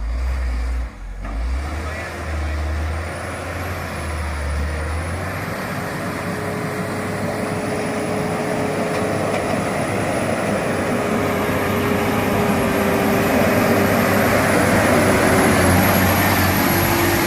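Heavy truck engine pulling hard in first gear under a heavy load on a climb. It starts suddenly and grows steadily louder, with a faint high whine above it from about three seconds in.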